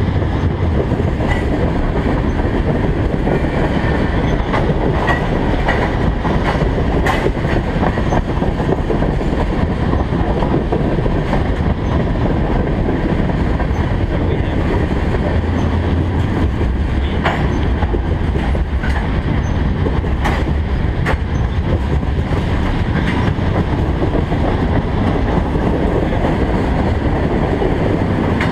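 Freight cars (tank cars and covered hoppers) rolling past close by: a steady, loud rumble of steel wheels on rail, with a sharp click or squeak now and then.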